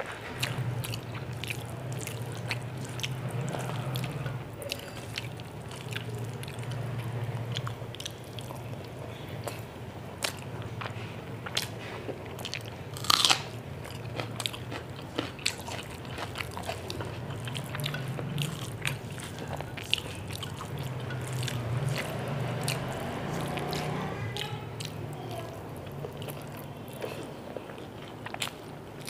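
A person chewing close to the microphone, mouthfuls of rice and chicken curry, with wet mouth clicks and crunchy bites of raw red onion. The loudest crunch comes about 13 seconds in.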